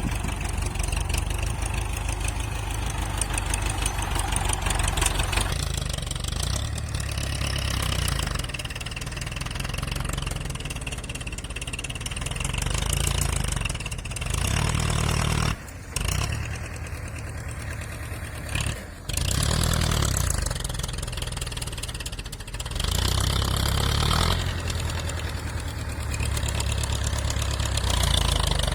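Tractor engine running, its speed rising and falling several times between idle and higher revs. The sound breaks off twice for a moment about halfway through.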